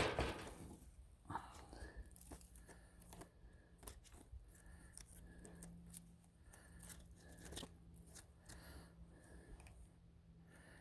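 A thump right at the start, then scattered small clicks, rattles and scrapes of chainsaw parts being handled, over a faint steady low hum.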